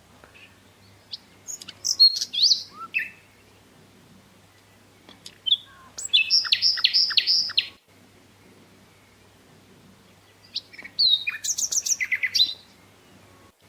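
Songbird singing in three short bursts of high chirps and whistled notes with pauses between; the middle burst is a quick run of repeated notes.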